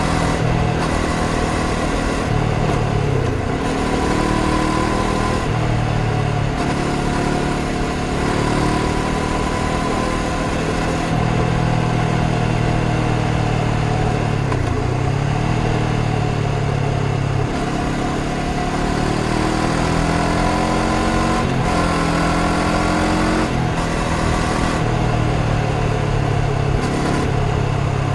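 Honda CBR500R's parallel-twin engine running on the road, its pitch rising and falling several times as the bike accelerates and slows, over a steady low wind rush.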